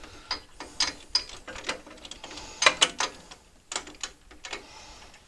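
Socket ratchet clicking in short, uneven strokes while a spark plug is being threaded into a small engine's cylinder head.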